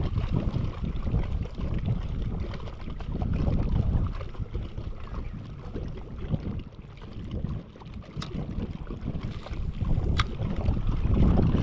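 Wind buffeting the microphone in gusts, swelling and easing every few seconds. There is a single sharp click about ten seconds in.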